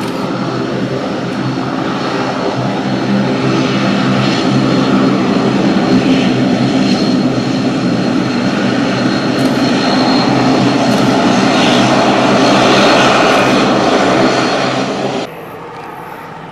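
Airliner engines running, with a steady low drone and a thin high whine. The sound grows louder for most of the stretch, then cuts off suddenly near the end, leaving a much quieter background.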